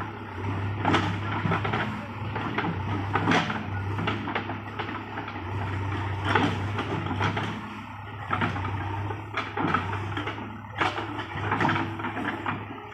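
Heavy diesel machinery running with a steady low engine hum, while irregular knocks and clatter come and go on top of it.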